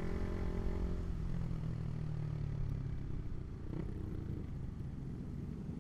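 Honda CB150R's single-cylinder engine through an aftermarket Proliner exhaust, running at steady revs and easing off about a second in, then carrying on lower under road and wind rumble.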